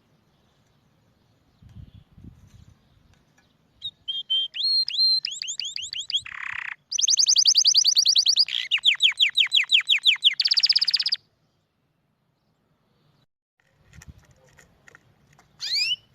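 Domestic canary singing. A few chirps lead into fast trills of repeated sweeping notes and end in a short buzzy run, then it stops; a single short rising note comes near the end.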